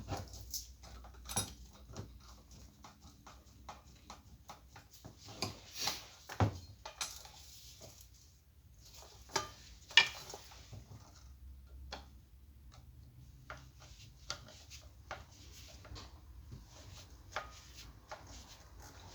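Irregular clicks, taps and clinks of tools and small hard parts being handled during repair work on an industrial fan, with a couple of louder knocks about six and ten seconds in.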